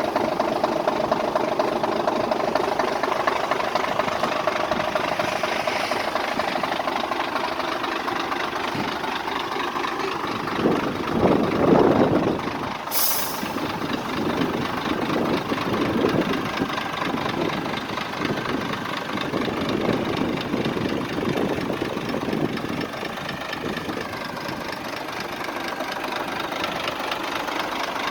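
Scania P114G 340 truck's diesel engine idling steadily, with a brief rise in revs about eleven seconds in. About thirteen seconds in there is one short, sharp hiss of compressed air being let out.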